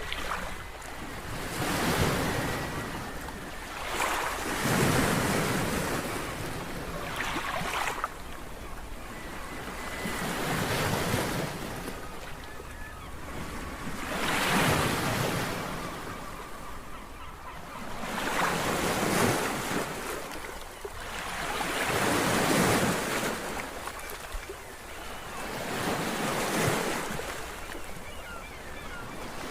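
Ocean waves washing, swelling and falling every three to four seconds.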